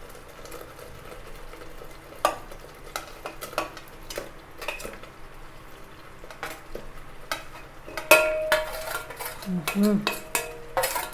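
Chicken pieces being stirred into a pan of curry masala with a metal spoon: scattered clicks and scrapes of spoon against the pan, coming thicker in the last few seconds, over a faint frying sizzle.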